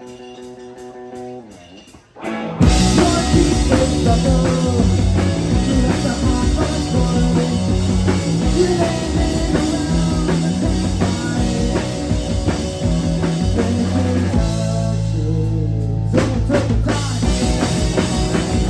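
Live rock band playing: a quiet stretch of held guitar tones over a steady ticking beat, then drums, bass and electric guitar come in loud together about two and a half seconds in and play on until the song ends near the end.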